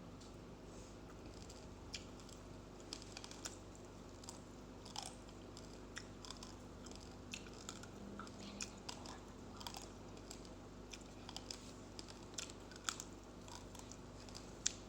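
A person chewing mouthfuls of uncooked rice grains, with many small, irregular crunches and clicks.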